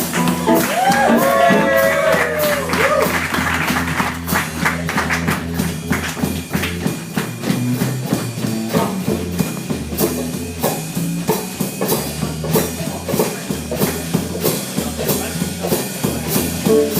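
Live band playing with drums, bass and guitar, a steady drum beat and a strong bass line running under it.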